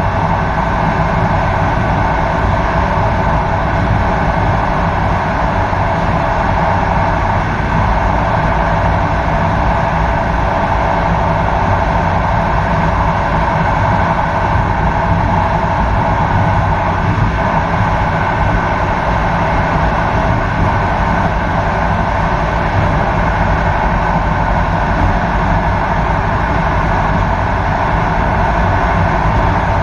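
Steady running noise of an intercity train at speed, heard from its rear cab: a low rumble of wheels on the rails with a steady hum over it.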